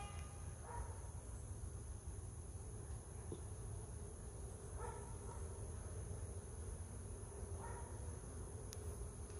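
Faint hum of honeybees around an open hive, with a short pitched call repeating about every three seconds.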